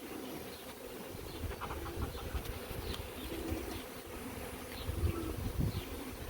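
Honey bees from an opened hive buzzing steadily, with a few short high chirps and a few low thumps about five seconds in.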